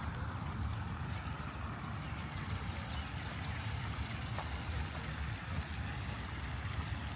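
Outdoor ambience dominated by wind buffeting the microphone, a steady low rumble over an even hiss, with a few faint high ticks.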